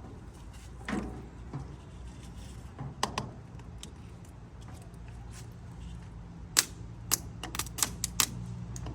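Scattered sharp metallic clicks and taps of hand tools and wiring being worked on an old Ford 600 tractor, with a quick run of clicks near the end.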